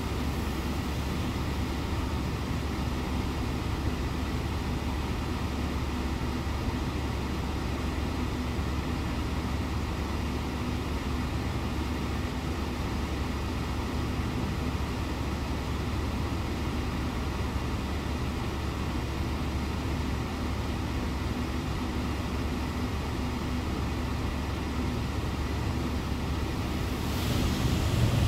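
Steady low drone of car wash machinery heard from inside a car, with a louder rushing noise coming in near the end.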